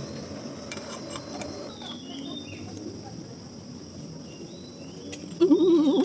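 Steady high-pitched drone of rainforest insects with short chirps over it and a faint murmur of voices. Near the end a loud, wavering voice cuts in for about half a second.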